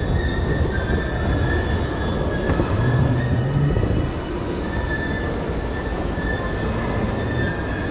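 Train moving along the station tracks: a dense rumbling noise with a thin, slightly wavering high squeal of the wheels on the rails above it.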